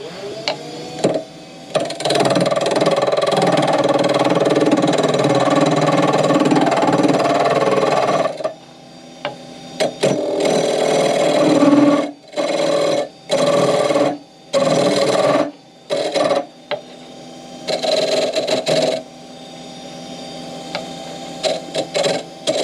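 Wood lathe motor spinning up and running with a steady hum, while a turning tool cuts the spinning wood. There is one long cut of about six seconds, then a run of shorter cuts about a second apart.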